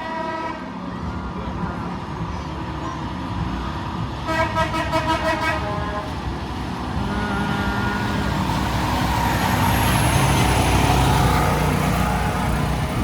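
Truck horn blasts: a chord-like horn sounds right at the start, and a second, pulsing blast comes about four seconds in and lasts a couple of seconds. A heavy truck's engine then grows louder as it passes, loudest near the end.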